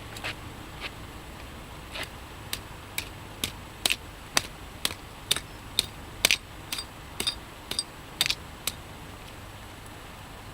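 A hatchet striking a microwave oven transformer on a concrete curb, chipping at it to free the copper windings from the steel core. About seventeen sharp hits land roughly two a second and stop near the end.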